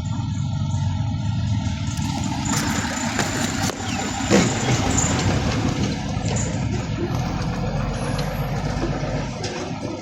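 Garbage truck engine running steadily, with a hiss coming in about two seconds in and a sharp clank a little past four seconds.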